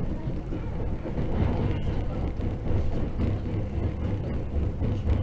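Running noise heard inside the passenger cabin of a JR 681-series electric limited-express train: a steady low rumble of the train in motion.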